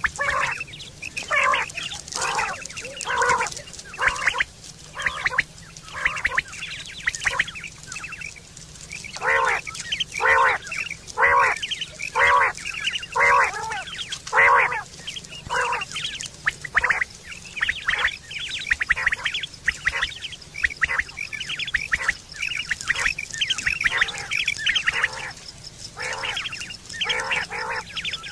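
A long series of short, repeated bird calls, one or two a second, with a slight lull about a third of the way in.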